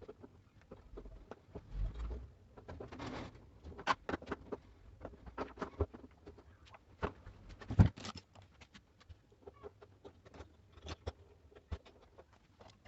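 Irregular clicks and knocks of tools and machine parts being handled, with a louder knock about eight seconds in.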